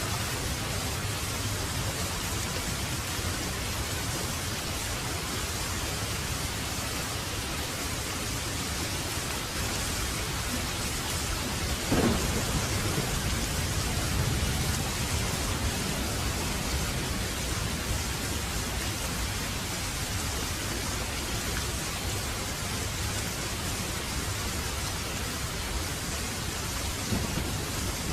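Heavy rain falling steadily, with a sharp thunderclap about twelve seconds in that rumbles on for a few seconds.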